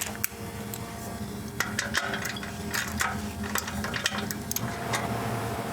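Socket ratchet working a 15 mm exhaust mounting bolt, with irregular metal clicks and taps over a steady low hum.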